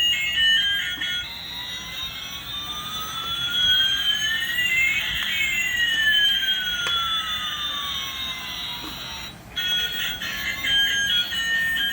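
Electronic sound effect: two synthetic tones glide in opposite directions, one rising and one falling, and cross in the middle over about eight seconds. Before and after them come short bursts of a beeping electronic melody.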